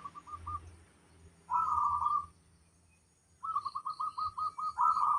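Zebra dove (perkutut) cooing: a few short notes at the start, a longer call about a second and a half in, then a quick string of rolling notes from about three and a half seconds in.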